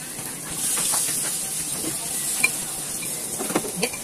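Battered eggplant slices sizzling steadily as they shallow-fry in hot oil, with a few sharp pops or clicks about halfway through and again near the end.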